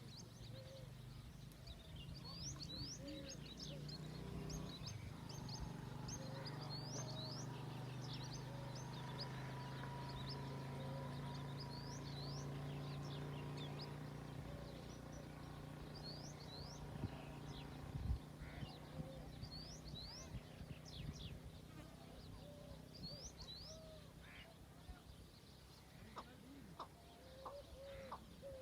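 Birds calling in the open with many short, high, sweeping chirps repeated throughout, and lower short notes every few seconds. Under them a steady low hum swells in early on, holds, and fades away before the end, and there is one sharp knock about two-thirds of the way through.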